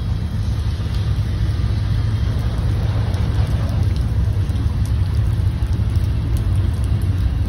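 CSX mixed freight train rolling past, its tank cars and covered hoppers making a steady low rumble, with rain falling.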